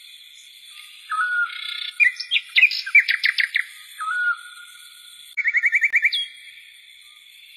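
Birds chirping: a short whistled note repeats about every three seconds, with a burst of loud chirps about two seconds in and a quick run of rising chirps near six seconds, over a steady high-pitched hum.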